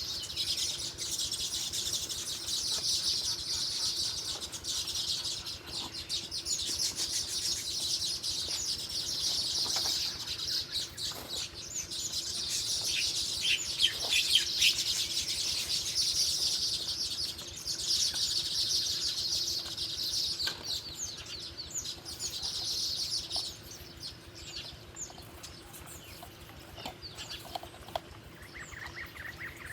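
Small birds twittering in a dense, rapid run of high chirps that fades out about three-quarters of the way through, leaving only a few scattered calls.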